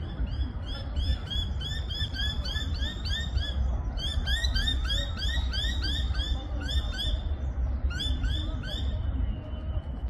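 A bird calling fast runs of short rise-and-fall chirps, about three or four a second, in three bursts, over a low steady rumble.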